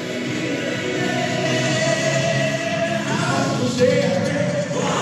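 A male singer performing a pop song live over a backing track, with held sung notes.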